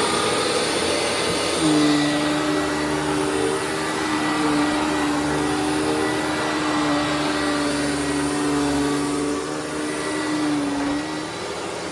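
Hoover WindTunnel Widepath upright vacuum cleaner running steadily, its brush roll turning smoothly on a newly replaced bearing. A steady humming tone joins the motor noise about two seconds in and drops away near the end.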